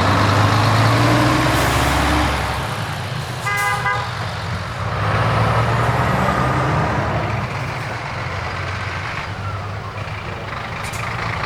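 Heavy truck engines rumbling as trucks drive past, with one short horn blast about three and a half seconds in.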